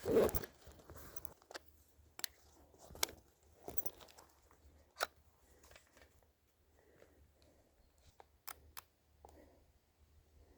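A camera being taken out of its bag: a brief rustling tear at the start, then scattered light clicks and rustles of handling.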